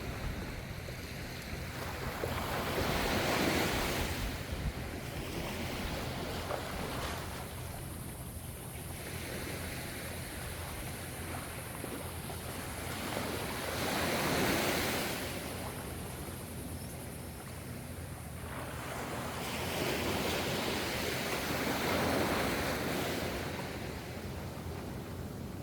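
Gentle ocean waves breaking and washing in as a steady surf, swelling louder three times as waves come in.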